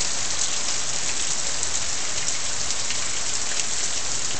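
Heavy rain coming down hard: a steady hiss with many small drop ticks.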